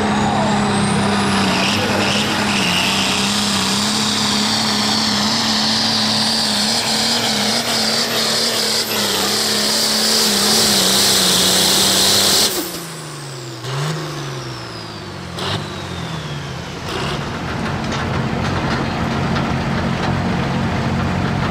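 Super stock pulling tractor's turbocharged diesel engine running flat out under load with a high turbo whine, then the throttle is cut about twelve seconds in and the engine and turbo wind down in pitch before settling to a lower running sound.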